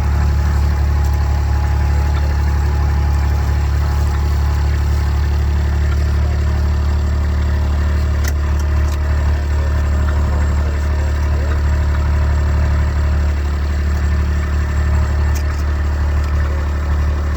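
Kubota's engine running steadily at low speed, with a constant low hum and no change in revs.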